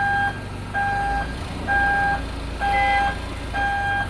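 A vehicle's reversing alarm beeping steadily, five beeps about one a second, over the low drone of an engine running.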